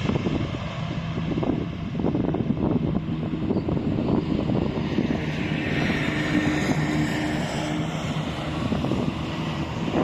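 Boeing 777 freighter's jet engines running as it passes on its landing approach, a steady loud rumble with a whine that swells near the middle.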